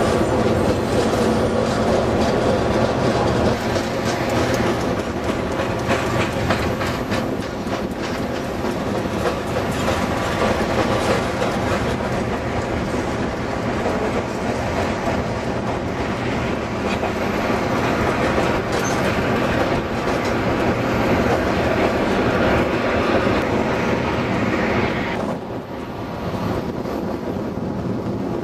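Freight train rolling by, its wheels clacking rhythmically over the rail joints. The sound drops off abruptly near the end.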